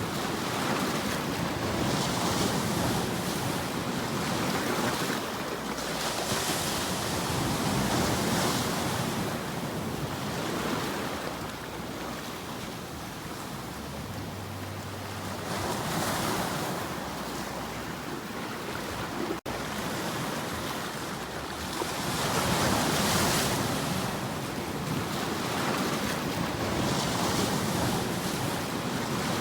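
Ocean waves surging and washing on a shore, swelling and easing every few seconds, with a very short drop-out a little past the middle.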